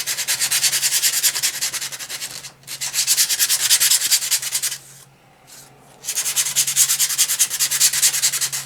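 Very fine grit sandpaper rubbed in quick short back-and-forth strokes over a painted wooden cutout, with a pause of about a second and a half partway through. It is a light sanding that smooths the rough, lumpy paint surface without taking paint off.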